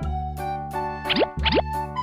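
Upbeat children's background music with a steady beat. A little past a second in, two quick rising cartoon sound effects like a slide whistle sweep upward in pitch, one just after the other.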